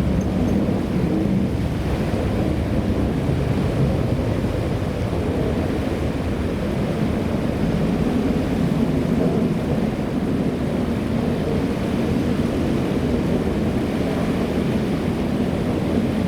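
Airbus A330-300 jet engines at takeoff thrust, heard as a loud, steady, deep rumble.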